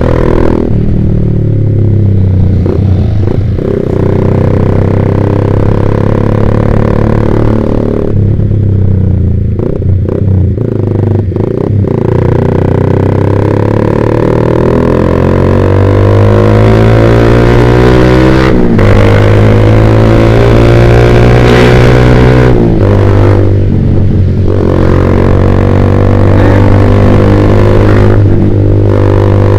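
Yamaha Vixion's single-cylinder four-stroke engine running through a short Proliner TR1 R aftermarket exhaust while being ridden. The engine note rises in pitch under throttle several times and drops suddenly at gear changes, twice near two-thirds of the way through.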